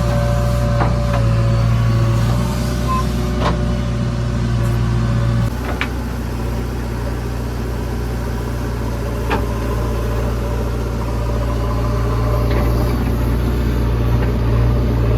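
Heavy diesel engine running steadily, with occasional sharp knocks and clanks. The engine note shifts abruptly about five seconds in.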